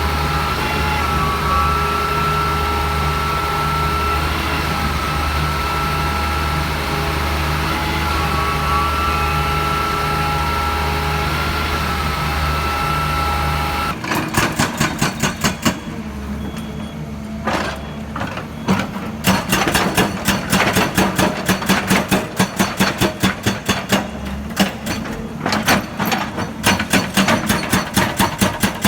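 Heavy vehicle engine running steadily. About halfway through it changes abruptly to a fast, rhythmic pulsing.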